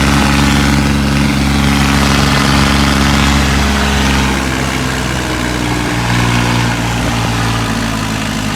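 Tractor diesel engine running steadily, loud and close. Its pitch eases down slightly about four seconds in.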